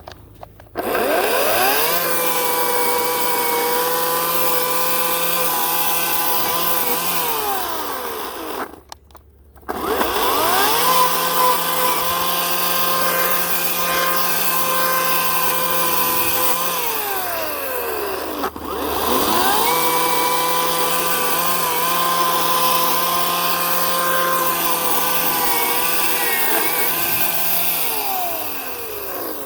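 Ryobi 18-inch battery electric chainsaw, its motor whining up to speed, held steady for about eight seconds while cutting birch, then winding down. This happens three times, with short pauses between the runs.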